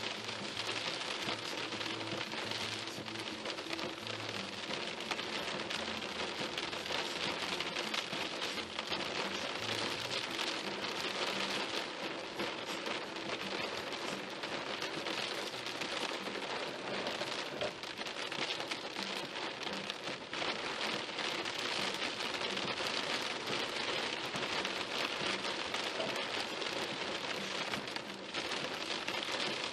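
Rain hitting a moving car's windshield and roof: a steady, dense hiss. A faint, evenly spaced low pulse runs underneath.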